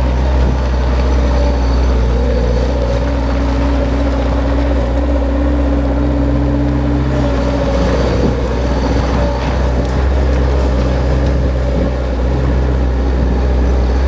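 Bobcat 753 skid steer loader's diesel engine running steadily under load as the machine is driven, its pitch wavering slightly a few times.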